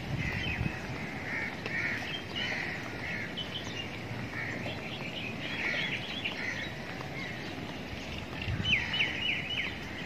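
Birds calling in a park, short calls repeating every half second or so, with a quick run of four sharp chirps near the end, over steady low outdoor background noise.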